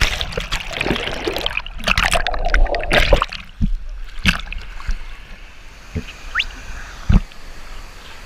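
Canoe running through a river canoe chute: rushing, splashing water for about three seconds, then a quieter wash of water broken by a few sharp knocks against the boat.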